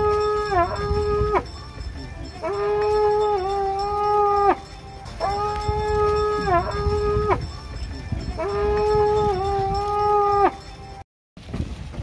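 A horn blown in four long, steady blasts of about two seconds each, one every three seconds or so, each with a slight dip in pitch partway through. The audio cuts out briefly near the end.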